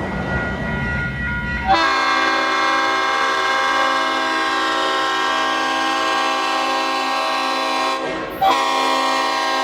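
Leslie RS5T five-chime locomotive horn on a GP38-3 diesel sounding a long blast of about six seconds, starting about two seconds in after a low rumble from the train, then a brief break and a second blast.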